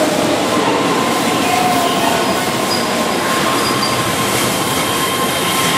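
Keihan 13000 series electric train rolling away over curved track, with a steady rumble of wheels on rail and a thin wheel squeal running over it.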